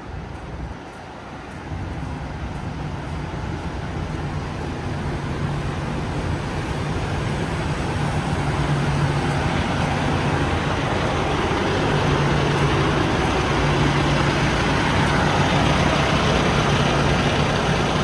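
Semi-truck engine and road noise heard from inside the cab, building over the first several seconds and then running steadily with a low hum.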